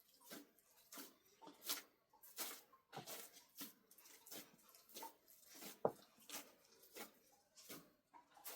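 A run of faint, irregular soft taps and knocks, about two a second, with one sharper knock a little after the middle.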